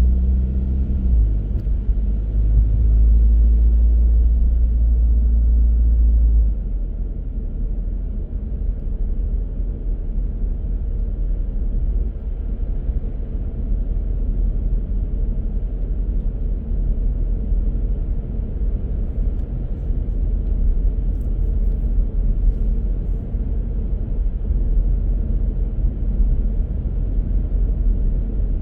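Car driving along a road: a steady low rumble of engine and tyres, which drops a little about six and a half seconds in and then holds even.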